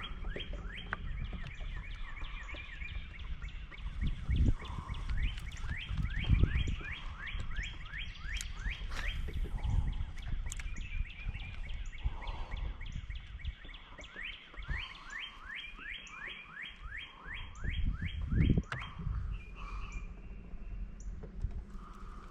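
A bird calling in a long, fast series of short rising chirps, about four or five a second, over a low outdoor rumble with a few dull thumps.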